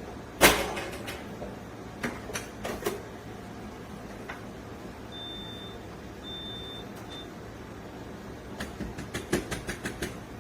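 Espresso tools being handled: one loud knock about half a second in, then scattered clicks, and a run of quick light taps near the end. Three short high-pitched beeps come in the middle, over a steady low hum.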